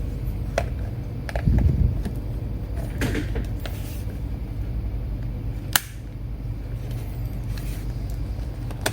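Plastic clicks and handling as the battery latches of an Asus A46CB laptop are slid and the battery is pulled out, with a low thump about a second and a half in and a sharp click a little before six seconds. A steady low hum runs underneath.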